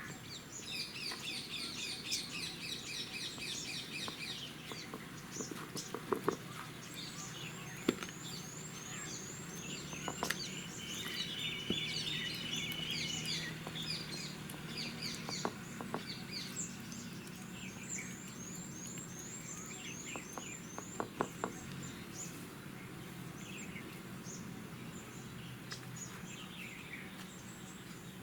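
Several birds chirping and calling, with fast repeated trills and series of quick high notes. A few light knocks come now and then.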